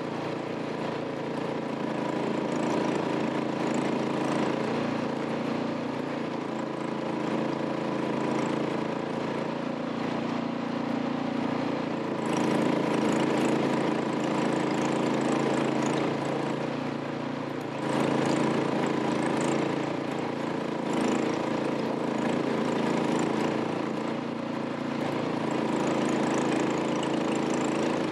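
Plow truck's engine running steadily, with the whole sound getting louder about twelve seconds in and again about eighteen seconds in.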